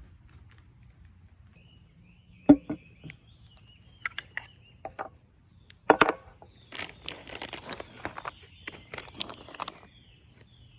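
Firewood being worked by hand: two sharp wooden knocks with smaller taps between them, then a run of quick cracks and snaps for about three seconds.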